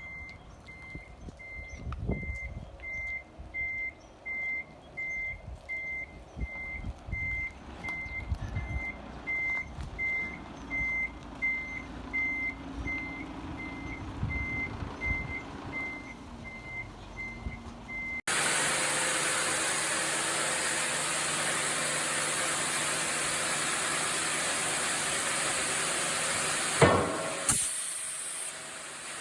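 A sawmill vehicle's reversing alarm beeping steadily, about two beeps a second, over low engine rumble and heavy clunks. It cuts abruptly to a steady loud rushing machine noise with a low hum, broken by one sharp bang near the end.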